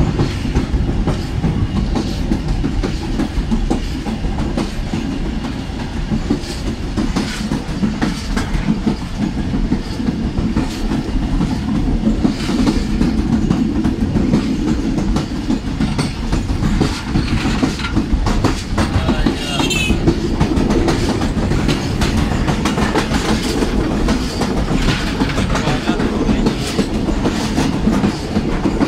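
Tezgam express train running over the old Jhelum River bridge, heard from an open carriage door: a steady rumble with the clickety-clack of the coach wheels over the rail joints. A brief rising high-pitched sound cuts in about two-thirds of the way through.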